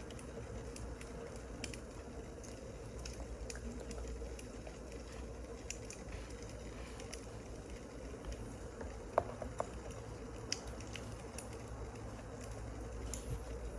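Wood fire crackling: a steady soft hiss with scattered small crackles and a few sharper pops a little past halfway.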